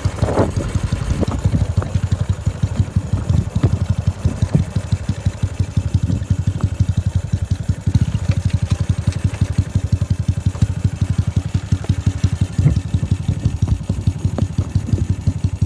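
Motorcycle engine running steadily, its exhaust giving a rapid, even train of low pulses.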